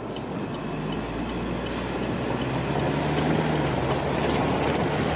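Vehicle driving, engine and road noise with rushing wind, growing gradually louder as it picks up speed.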